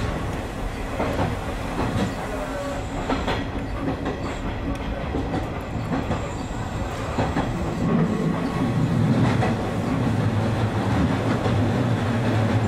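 Electric train of the Izu Hakone Railway Sunzu Line running along the track, heard from inside the front of the car: a steady running rumble with wheels clicking over rail joints, and a low hum that grows louder about two-thirds of the way in.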